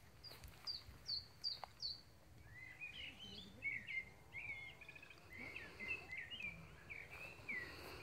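Songbirds singing in the trees: a run of about five short, high, downward-sliding notes in the first two seconds, then a long, varied warbling song from about two and a half seconds on.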